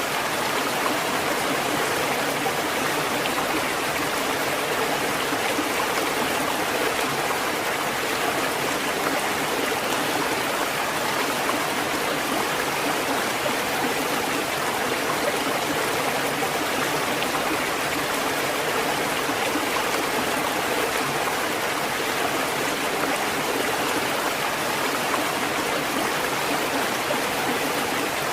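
Steady rushing water, an even hiss that holds at one level without the rise and fall of breaking waves.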